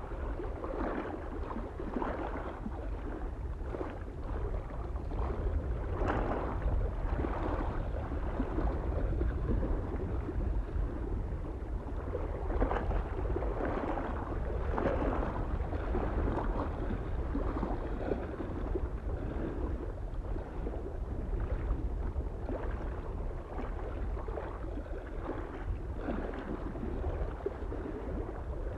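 Small waves lapping on a mountain lake shore in irregular splashes about once a second, over a steady low rumble of soft wind.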